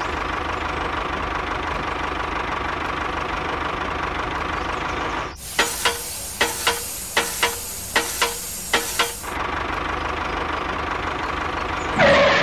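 Tractor engine running steadily at idle. About five seconds in it breaks off for some four seconds of loud hissing air crossed by about ten sharp clicks, then the engine returns.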